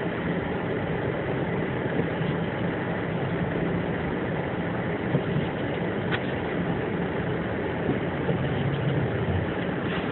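Car engine running steadily, a low continuous hum, with the car stuck in snow.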